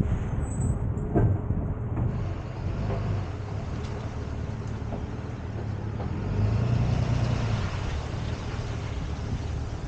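Tow truck engine running with road noise, a single knock about a second in, and the engine swelling briefly around six to seven seconds in.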